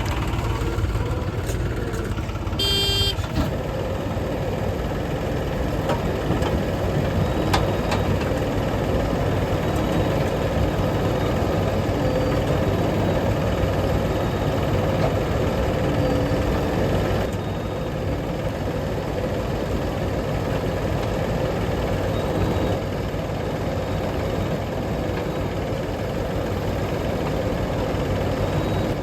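Heavy diesel engines of a backhoe loader and tipper trucks running steadily, with a brief horn honk about three seconds in.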